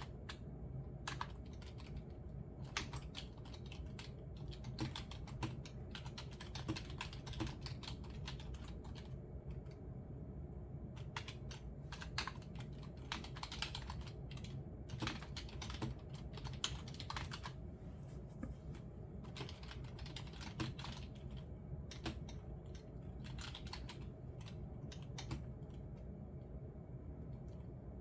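Computer keyboard typing in irregular bursts of key clicks with short pauses between them, over a steady low background hum.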